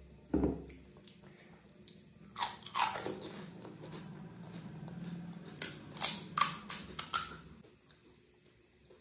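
Crisp pani puri shells crunching as they are bitten and chewed with a full mouth. There is a soft thump about half a second in, a couple of crunches a little later, then a quick run of five or six sharp crunches past the middle.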